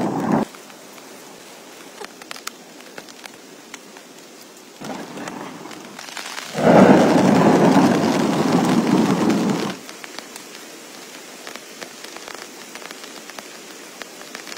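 Steady heavy rain with thunder: a rumble ends just after the start, and a second, louder roll of thunder builds about five seconds in, peaks around seven seconds and cuts off near ten seconds.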